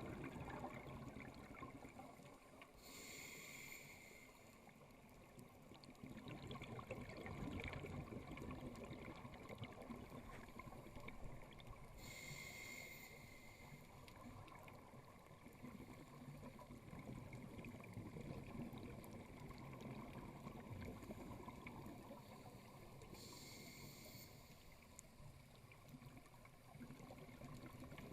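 Scuba regulator heard underwater: three rushes of exhaled bubbles about ten seconds apart, one per breath, over a faint steady low rumble of water.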